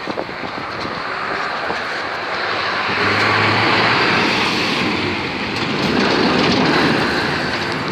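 A lorry driving past close by, its engine and tyre noise building to a peak in the middle and easing off near the end.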